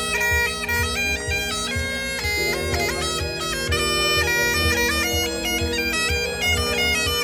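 Bagpipes playing a melody of sustained, stepping notes over a steady drone, which cuts off abruptly just after the end.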